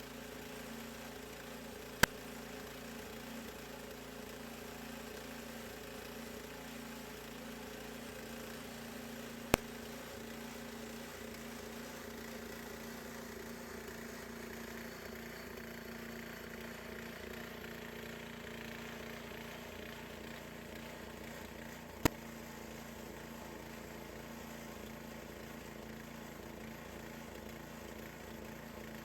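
Gas engine of a Harbor Freight portable bandsaw sawmill running steadily while the band blade cuts through a cedar log. Three sharp clicks stand out above it: one a couple of seconds in, one near ten seconds, and one a little after twenty seconds.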